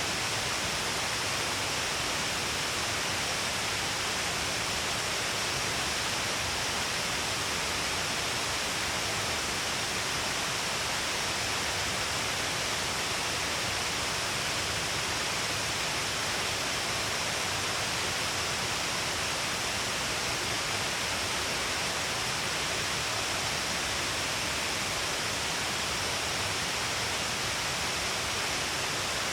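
Shiraito Falls, a wide curtain of many streams of water pouring down along a cliff, rushing as a steady, unbroken hiss of falling water and spray.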